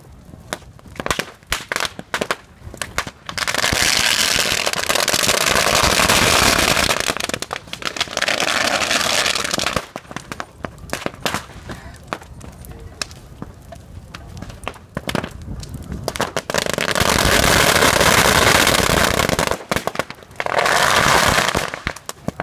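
Firecracker strings going off. Scattered single pops and bangs give way to long runs of rapid, dense crackling lasting several seconds each: one starting about three seconds in, another in the last third, then a short final burst.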